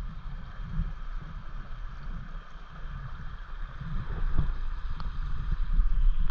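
Water of a mountain stream flowing steadily, with wind rumbling unevenly on the microphone.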